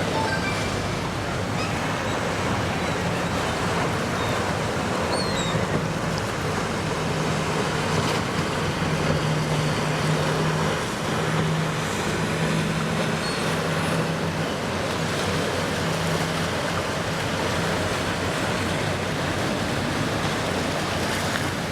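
Steady rumble of powerboat engines over the wash of water in the inlet, with a low engine drone rising and falling through the middle.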